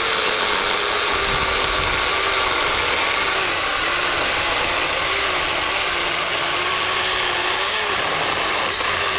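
Battery-powered mini electric chainsaw (Keelat 6-inch cordless) running steadily, its motor whine wavering and dipping a little in pitch as the chain works.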